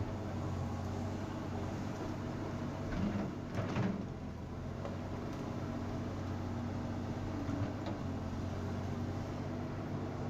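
Excavator's diesel engine running steadily, with a few metal clunks and a brief creak from the working arm and bucket about three to four seconds in.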